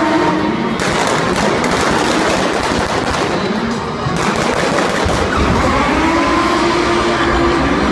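Stunt cars' engines revving, with a dense run of sharp crackling pops for about three seconds from a second in, then engine tones rising and falling again near the end. Music plays underneath.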